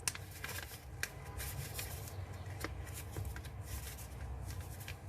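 A sheet of letter-size paper rustling and crackling as it is folded and creased by hand, with scattered sharp crinkles.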